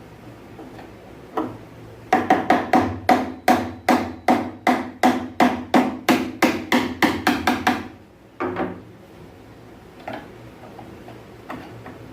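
Hammering: a single blow, then a quick, even run of about twenty blows at three to four a second, with a couple more after a short pause.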